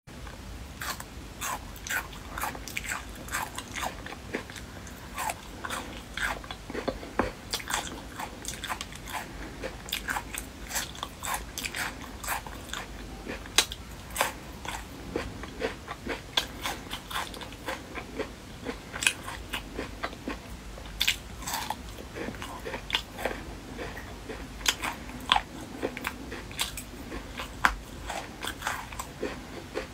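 A person chewing crunchy, chili-coated food close to the microphone: irregular crisp crunches, several a second, with wet chewing between them.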